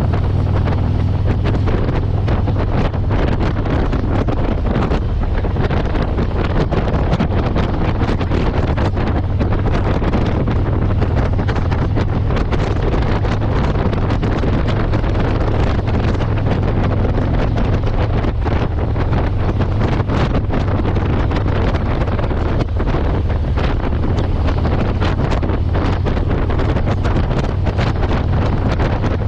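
Motorcycle engine running at a steady cruise, its low hum holding constant, with heavy wind buffeting the microphone.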